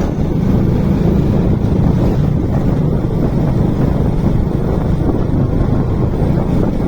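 Motorcycle riding at speed: steady wind buffeting the microphone over the low drone of the engine.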